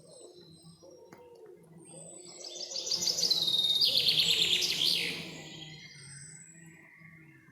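A songbird sings one loud, rapid trilling phrase of quick repeated high notes, starting about two and a half seconds in and lasting about two seconds. Faint thin whistles from other birds come before and after it.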